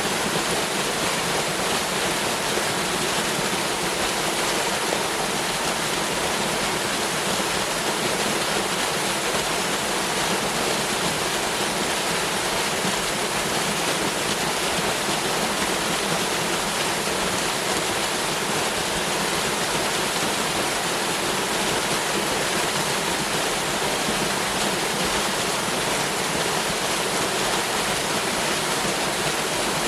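Waterfall: water pouring and splashing down, a steady, unchanging rush.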